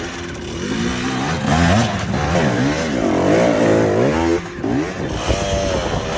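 Enduro motorcycle engine revving, its pitch rising and falling again and again as the throttle is worked, with a brief drop about four and a half seconds in.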